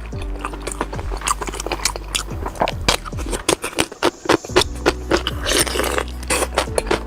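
Close-up chewing and biting sounds, many short sharp crunches and wet clicks, over background music with steady low tones that briefly drops out around the middle.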